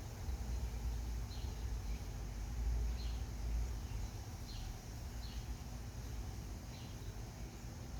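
Ceiling fan running at medium speed with a steady low motor hum. Short, high chirps recur about once a second over it.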